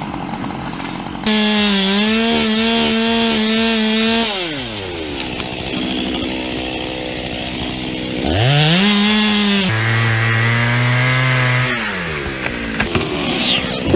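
Two-stroke chainsaw running at full throttle, easing off, then revving back up, followed by a steadier, lower-pitched run.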